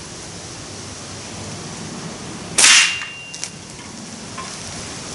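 .177 exploding pellet going off on a solid steel target: a single loud crack, like a big firecracker, about two and a half seconds in, followed by a brief ringing tone.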